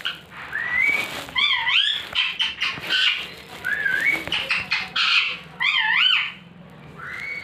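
Parrot calling: short rising whistles and wavering, up-and-down whistled notes mixed with harsh squawks.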